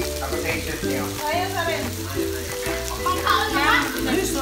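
Marinated beef and chicken sizzling on a tabletop electric grill plate, a steady hiss under background music.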